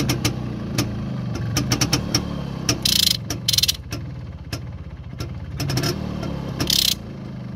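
IZh Planeta-3 motorcycle's single-cylinder two-stroke engine idling, with many sharp ticks over its steady beat. A few short hissing bursts come about three seconds in and again near the end.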